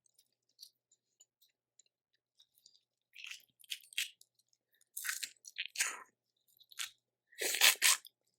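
Close-miked eating of boiled seafood: irregular crunching, cracking and wet smacking as shells are broken and the meat chewed, in short scattered bursts with the loudest crunch near the end.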